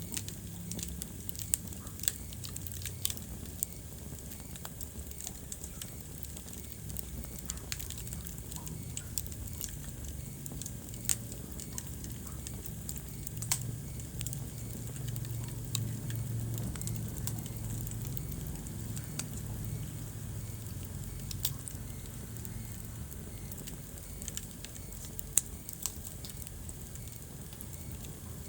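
Wood fire crackling in a fireplace: irregular sharp snaps and pops, a few much louder than the rest, over a steady low hum.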